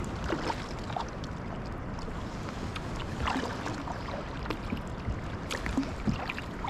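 Kayak paddling: paddle blades dipping and splashing, with irregular drips and splashes over a steady low rush of water and light wind.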